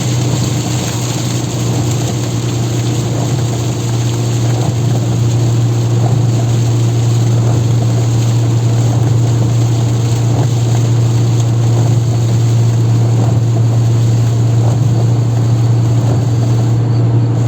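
Inside the cabin of a Renault Twingo with the 16-valve D4F four-cylinder, driving at highway speed in heavy rain: a steady low engine and road drone under a constant hiss of rain and tyre spray. It grows a little louder about a third of the way in.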